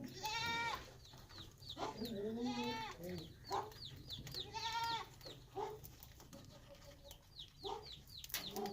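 Cockatiels calling: three longer drawn-out calls, then a quick run of short, high chirps that fall in pitch, about three or four a second, through the second half.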